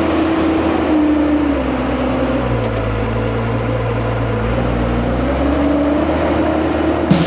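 Diesel engine of a loaded JCB 714 articulated dump truck running steadily as it drives over the fill; the engine note settles lower in the middle and climbs again near the end.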